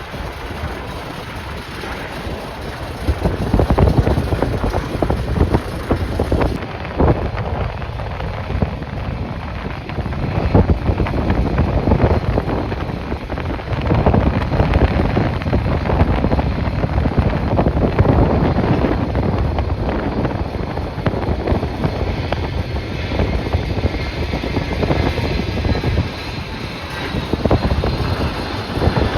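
Strong gusty wind buffeting the microphone over the sound of a jet airliner's engines. A faint, steady engine whine comes through near the end.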